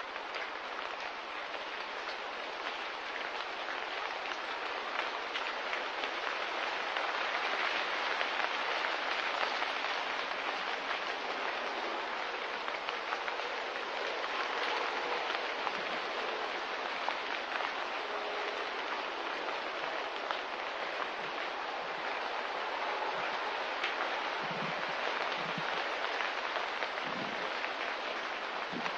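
Steady, rain-like hiss of a nature ambience track. It swells slightly over the first several seconds, and a few soft low thuds come near the end.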